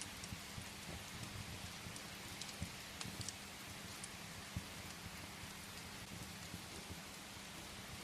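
Steady rain pattering against a window, with scattered sharp pops and crackles of firewood burning in a fireplace.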